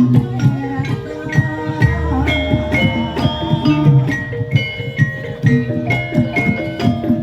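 Javanese gamelan accompaniment for Jaranan: struck metal keyed instruments play a quick, dense run of ringing notes over drum strokes. A deep sustained tone sounds for about a second, starting about two seconds in.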